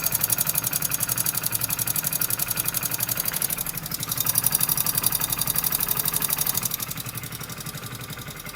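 Hero Splendor BS6 fuel-injected single-cylinder engine idling with a fast, even tik-tik ticking from the top end, which the mechanic takes for tappet (valve clearance) noise, possibly the timing chain. The running gets a little quieter about seven seconds in.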